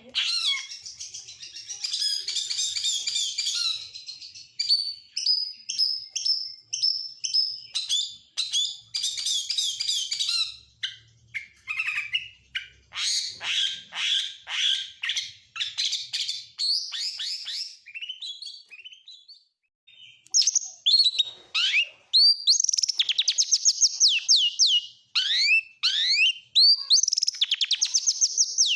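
Oriental magpie-robin singing a long, varied song of whistles, chatters and trills, full of phrases borrowed from other songbirds. After a short pause about two-thirds of the way in, it delivers rapid runs of falling notes.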